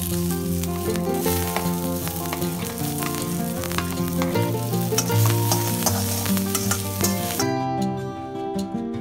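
Garlic, dried red chillies and chopped shallots sizzling in oil in a steel pan while a steel slotted spatula stirs and scrapes them, over background music. Near the end the sizzle drops away, leaving sharp clinks of the spatula against the pan.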